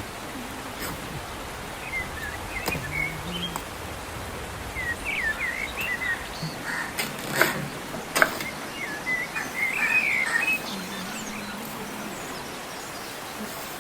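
Small birds chirping in short, scattered calls over a steady background hiss, with two sharp clicks about midway.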